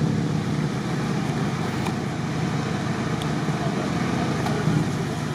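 Off-road 4x4 engines running steadily at low revs, a constant low hum with no revving.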